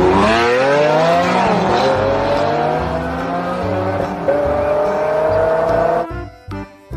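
Race car engine revving, its pitch swooping down and up and then climbing steadily before cutting off about six seconds in, over background music with a steady bass.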